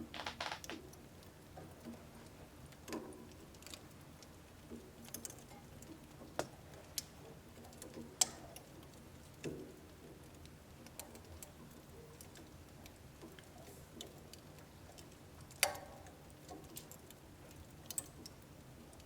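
Wood fire crackling in a household wood-burning stove: irregular sharp pops and ticks over a faint low hiss. The loudest pops come about eight seconds in and again near sixteen seconds.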